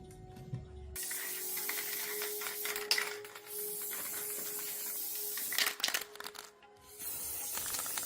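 A steady hiss broken by sharp mechanical clicks, over faint background music; the hiss stops for a moment a little before the end.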